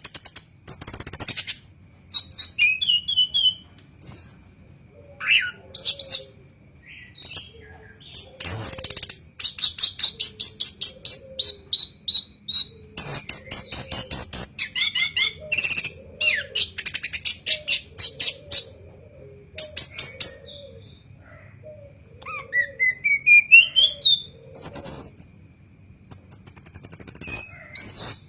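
Orange-headed thrush (anis kembang) singing at full volume. Its varied song runs in bursts of harsh, buzzy, high notes, rapid rattling trills and rising whistled glides, with short pauses between the phrases.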